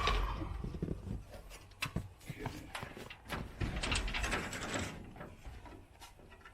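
Scattered knocks and clicks, with a short run of rattling partway through, from pieces of leftover roofing being handled and fitted.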